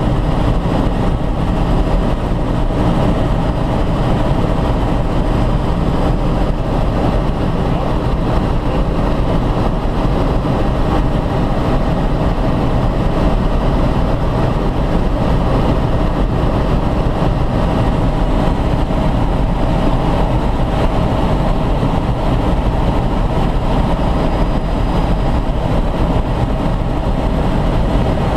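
Helicopter running, heard from inside the cabin: a loud, steady engine and rotor din with a faint steady hum in it.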